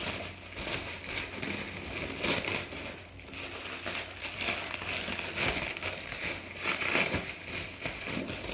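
Plastic cling film and packing tape being unwrapped by hand from a parcel, crinkling and rustling in irregular bursts.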